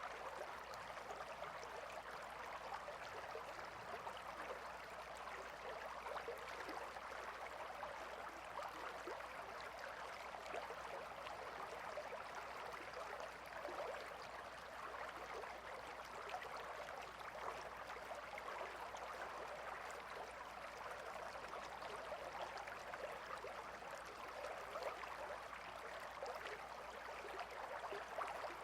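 Gentle river or stream flowing steadily, a soft continuous babble of running water.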